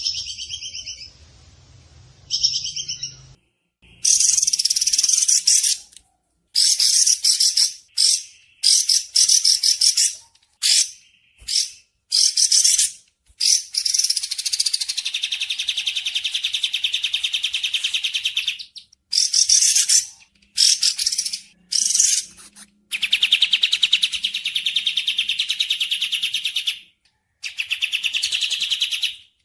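Recorded bird song: a string of rapid, high-pitched trilled phrases, each starting and stopping sharply with short silent gaps between them, and one longer phrase of about five seconds near the middle.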